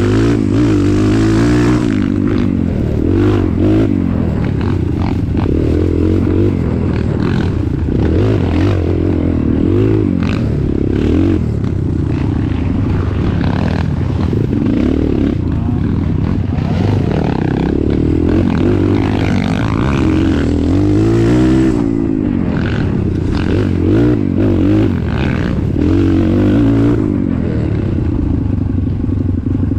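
An off-road vehicle's engine running under load, its pitch rising and falling again and again as it revs and eases off, with rattling and clattering.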